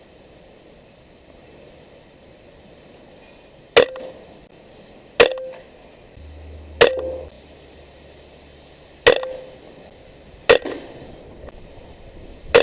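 Benjamin Marauder .22 PCP air rifle firing a string of shots, each a sharp crack with a short ringing tail. Five shots come about a second and a half to two seconds apart, starting nearly four seconds in, and a sixth lands at the very end.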